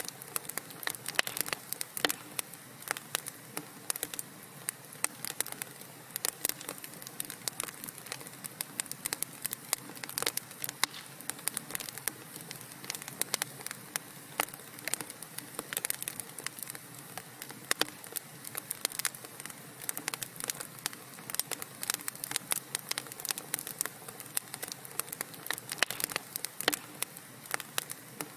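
Wood fire crackling in a fireplace: dense, irregular pops and snaps over a steady low hiss of burning logs.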